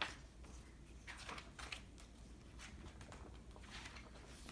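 Quiet room tone with a few faint, brief rustles.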